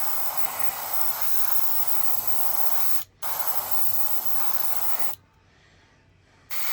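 Spray paint jetting onto plastic model kit parts in steady bursts: one long spray, a brief break about three seconds in, another spray, then a pause and a fresh burst near the end.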